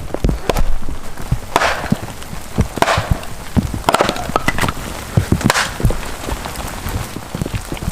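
Irregular knocks and clicks of wood being handled, with four or five short brushy scrapes about a second apart, over a steady patter of rain.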